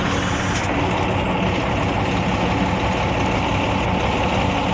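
Truck engine idling steadily with an even low hum.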